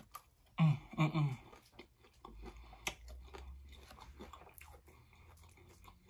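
Close-up chewing of a mouthful of soft, gravy-covered plant-based hamburger steak, with wet mouth clicks and smacks. About half a second in come two short closed-mouth hums of enjoyment.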